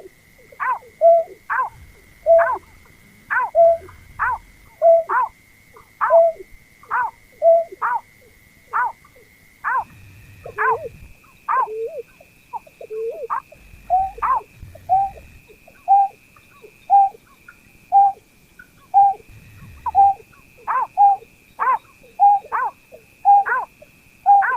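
Berkik (pekung), a rice-field bird, calling: a rapid series of short whistled notes, each sliding downward, about one and a half a second. A steady high tone runs underneath and steps up slightly about halfway through.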